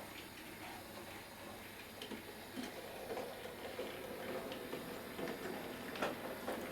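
Bachmann Class 03 shunter model train running slowly with a low motor hum, its wheels clicking irregularly over rail joints and Peco Streamline points; one sharper click about six seconds in.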